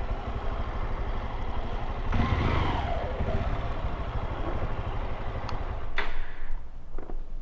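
Honda XRE 190's single-cylinder engine running on the move. It revs up about two seconds in and then falls off as the bike slows. Near the end come a few sharp clicks and the engine sound drops low.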